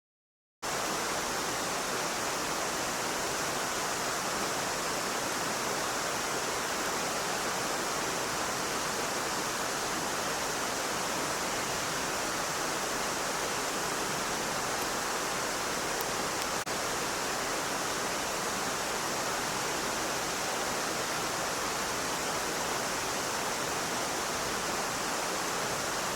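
Stream water rushing, a steady unbroken rush that cuts in about half a second in.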